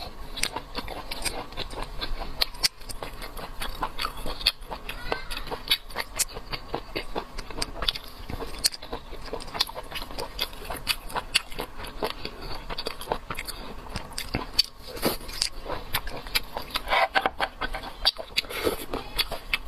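Close-miked eating: a person chewing and biting food, with many small irregular crisp clicks and crunches.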